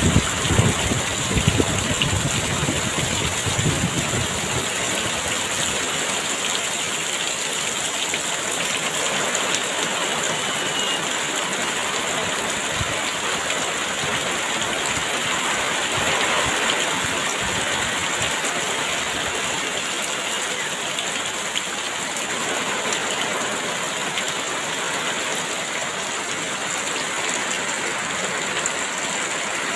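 Heavy rain falling steadily, a dense even hiss, with low gusts of wind in the first few seconds.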